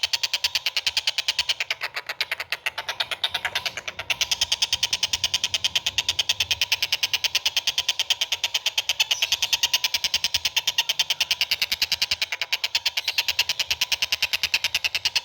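A small songbird's rapid, steady rattling trill of evenly spaced sharp notes, about ten a second, high-pitched. It falters and softens briefly about two to four seconds in, then runs on evenly.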